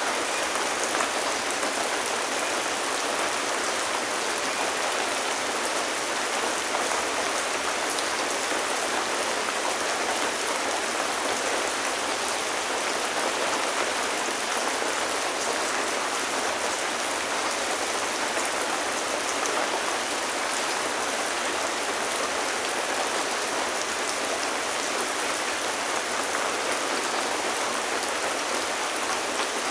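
Steady rain falling and pattering on surfaces, an even hiss of drops with no breaks.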